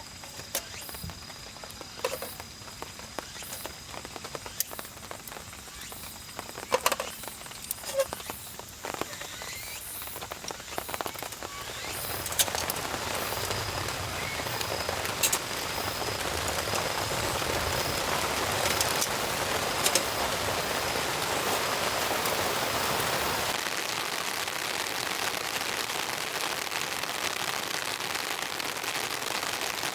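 Rain falling: scattered separate drops ticking at first, then about twelve seconds in it becomes a louder, steady, even downpour.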